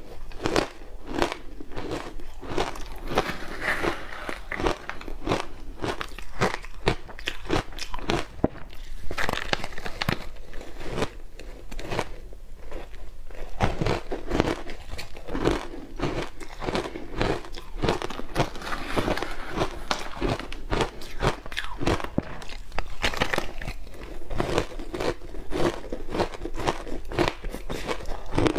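Close-up crunching and chewing of matcha-powdered ice: many sharp, irregular cracks several times a second as the ice is bitten and ground between the teeth.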